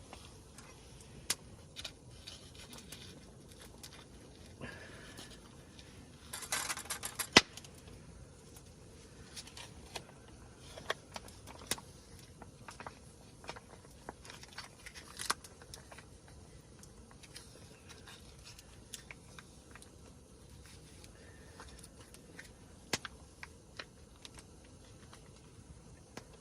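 Scattered light clicks and taps at an irregular pace, with a short rustle about six and a half seconds in that ends in a sharp click.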